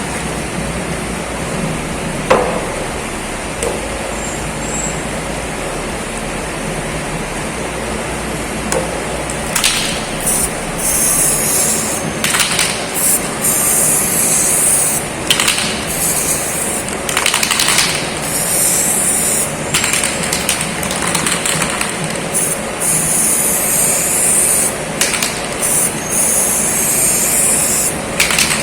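Spray paint hissing in repeated short bursts, starting about ten seconds in, over a steady background noise. Two sharp knocks come in the first few seconds.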